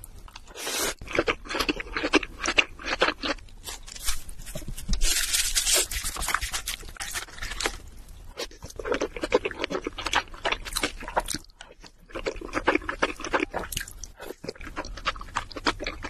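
Close-miked chewing of crab meat and rice: a dense run of wet mouth clicks and smacks, with a longer hissing sound about five seconds in.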